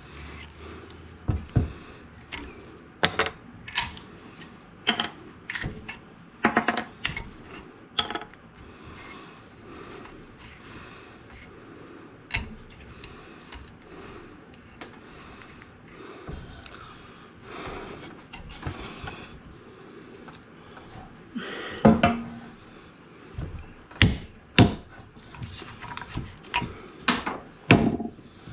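Irregular knocks and clicks, like tools and pieces of wood being handled and set down on a bench, spaced a second or more apart, with a louder cluster about two-thirds of the way through.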